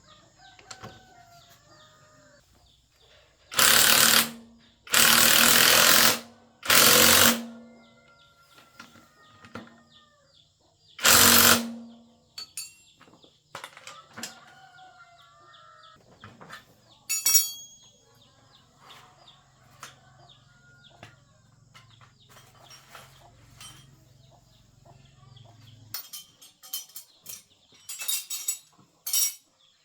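Four loud bursts from a compressed-air tool in a motorbike tyre shop, each about a second long, the first three close together and the last a few seconds later. Birds chirp faintly between them.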